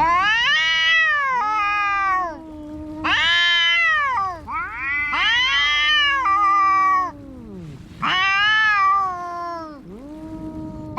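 Cats yowling in a fight standoff: four long, wavering caterwauls, each rising and falling in pitch, with two voices overlapping in the middle and a low drawn-out moan held between the calls.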